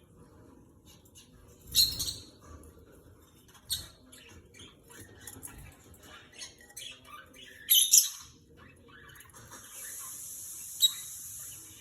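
Small pet birds chirping and squawking in short sharp calls, with light clicking and pecking sounds between, at feeding time. A steady hiss runs for about two seconds near the end.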